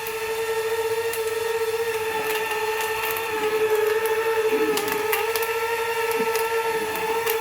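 Small brushless drone motor spinning a fan in a homemade battery-powered vacuum cleaner, running with a steady high whine. The pitch dips slightly about five seconds in, and scattered ticks sound over it.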